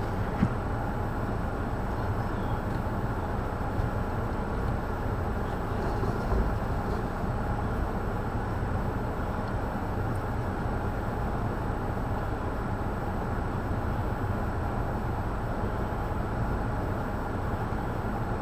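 Blizzard wind blowing on the microphone: a steady, low rumbling rush that holds even throughout.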